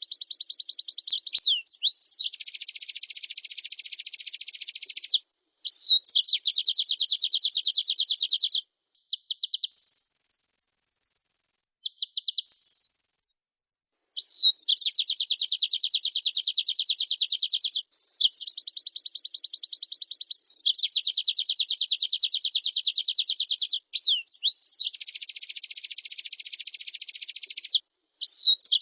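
A white-eye (pleci) singing in long, rapid trilled phrases of several seconds each, separated by short gaps. About ten seconds in, the trilling gives way to two shorter, higher and harsher bursts, then resumes.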